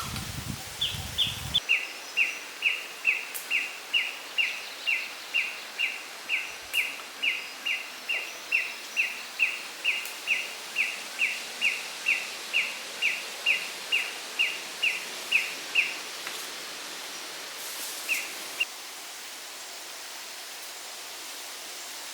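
A bird repeating one short, high, downward-sweeping call nearly three times a second for about fourteen seconds, pausing, then giving two more calls, over a steady background hiss.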